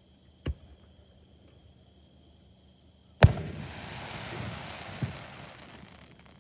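Fireworks shells bursting: a sharp bang about half a second in, then a much louder bang about three seconds in with a hissing, rumbling tail that fades over about three seconds and holds one more pop. Insects trill steadily in the background.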